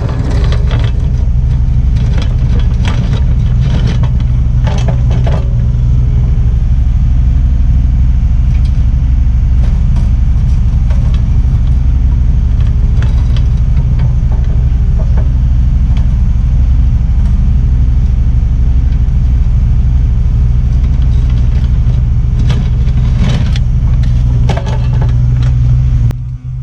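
Kubota U55-4 mini excavator's diesel engine running loud and steady under work, with a few sharp clanks now and then.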